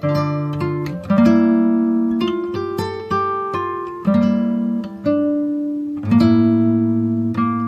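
Background music: acoustic guitar played with plucked and strummed chords, each note ringing out and fading before the next.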